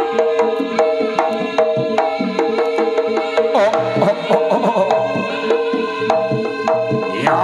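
Live Javanese jaranan ensemble music: hand-drum strokes over steady ringing tuned-percussion tones, with a melody line that bends in pitch coming in about halfway.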